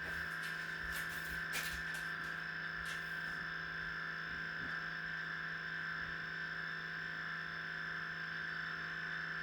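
Mainstays single-serve K-cup coffee maker's water pump running with a steady hum after the reservoir has run out of water, with a few faint ticks in the first few seconds.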